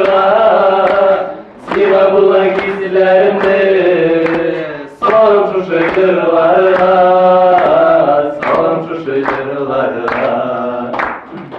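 Groom singing his favourite song, one man's voice drawing out long held notes in three long phrases with short pauses for breath between them.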